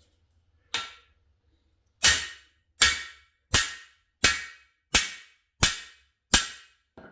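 Hammer blows on a cam bearing installer's driver bar, driving a new cam bearing into an LS6 engine block's cam bore. One light tap, then seven sharp, evenly spaced blows about one every 0.7 seconds, each ringing briefly, and a lighter tap near the end.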